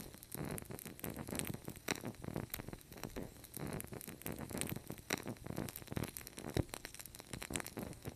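Wood fire crackling: a dense run of irregular sharp pops and snaps over a low, steady rush of flame.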